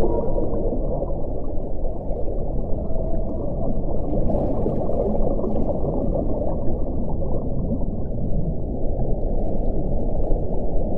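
Strong wind blowing steadily, a low rushing noise with faint, brief whistling tones now and then.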